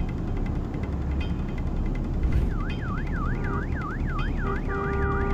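A low steady rumble, then about halfway in an emergency vehicle's siren starts a fast yelp, sweeping rapidly up and down several times a second. A second, steady siren tone joins near the end.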